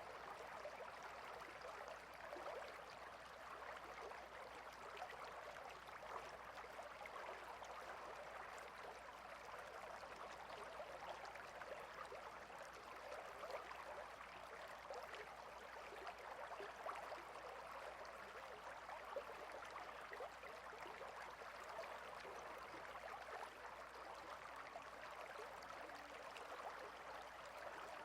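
Stream water babbling and trickling steadily, with fine splashing detail.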